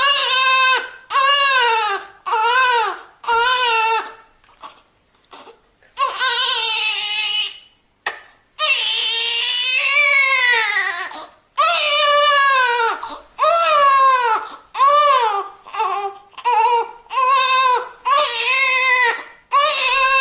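Newborn baby crying: a run of short, loud wails, each rising and falling in pitch, broken by quick gasps. There is a brief lull with small whimpers about four seconds in, then longer drawn-out wails in the middle, and short cries again toward the end.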